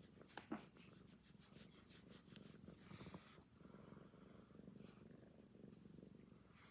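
Domestic cat purring steadily and faintly, with a few soft clicks in the first three seconds.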